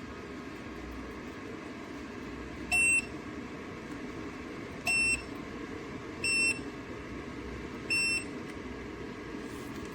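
Four short, high electronic beeps, irregularly spaced a second or two apart, typical of a space heater's control panel acknowledging button or remote presses, over a steady whir.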